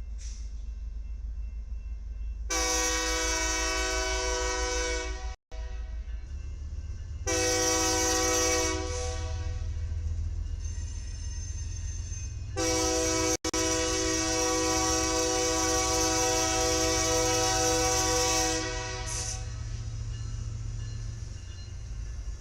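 Train air horn sounding three blasts, a long one, a short one, then a long one of about six seconds, over the steady low rumble of a passing train.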